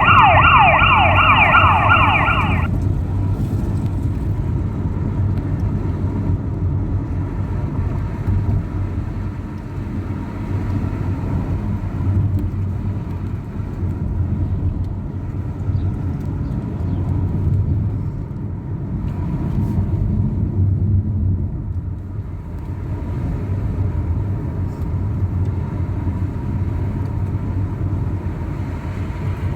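Fire engine siren sounding a fast, repeating yelp for about the first two and a half seconds, then cutting off suddenly. After that only a steady low rumble of vehicle engine and road noise remains.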